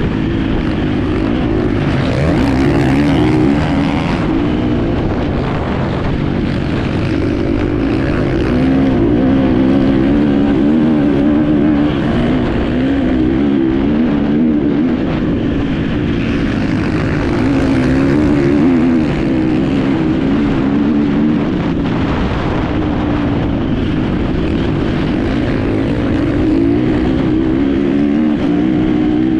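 Enduro motorcycle engine heard from on board, running continuously under load, its revs rising and falling as the bike is ridden.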